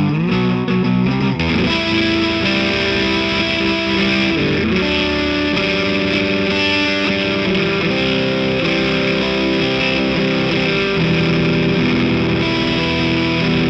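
Electric guitar, a Gibson Les Paul Custom through a Greer overdrive pedal into a Marshall JCM800 combo amp, playing distorted chords that are held and left to ring. There is a short slide in pitch near the start.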